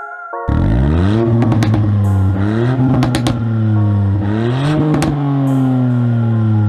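Ford Fiesta ST Mk8's turbocharged 1.5-litre three-cylinder engine revved three times through a Cobra Sport 200-cell sports catalytic converter, each rev rising and then falling back, with sharp cracks near the peaks. The sound starts about half a second in.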